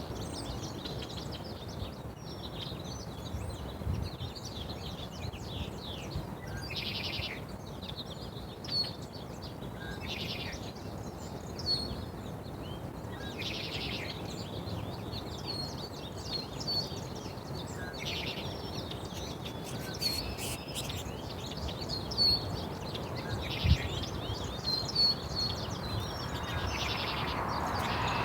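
Small birds chirping with short, high calls again and again, with a few brief buzzy trills, over steady outdoor background noise that grows louder near the end.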